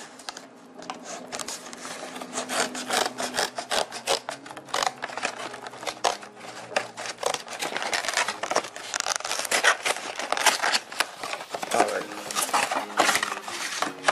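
Scissors cutting and scraping along the edge of a cardboard box: a dense run of snips, scrapes and crackles of card and plastic packaging.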